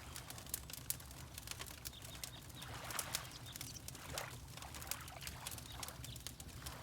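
Wood fire crackling with frequent sharp pops, over water lapping in a few soft splashes, with a steady low rumble underneath.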